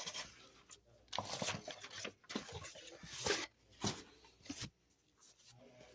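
Cardboard mailer being torn and pulled open, a series of irregular ripping and rustling bursts, fading off near the end.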